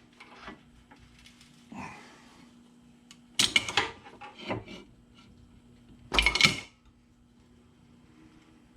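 Tools and metal parts being handled on a workbench: a few short clanks and rattles, the loudest about two-thirds of the way in, over a faint steady hum.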